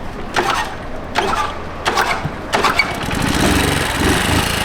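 A 50cc motorbike engine being cranked over in four short strokes that don't catch, then catching about three seconds in and running steadily. It is a hard start on an engine that wouldn't start at first.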